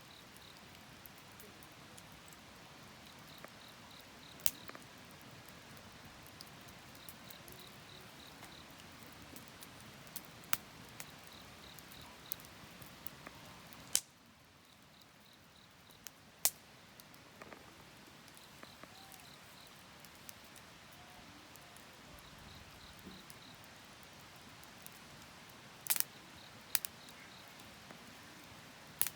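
Wood fire crackling with scattered sharp pops at irregular intervals, over an insect chirping in short trills of a few pulses every second or two.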